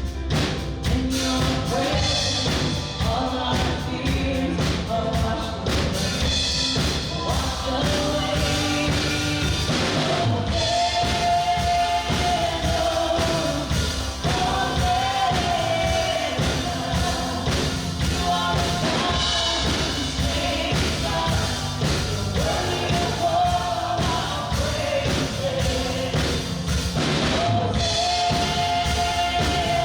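Worship band playing with drums, and voices singing a held melody line.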